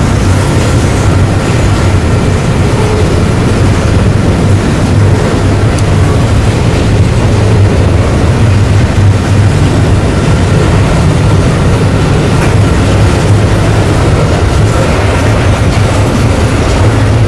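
Train rolling past close by: a steady, loud rumble of wheels on the rails that doesn't let up.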